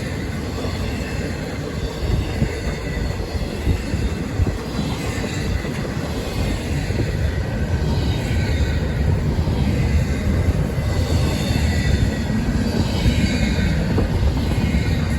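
A train rolling past: a steady rumble of cars on the rails, with faint wavering wheel squeal in the latter part.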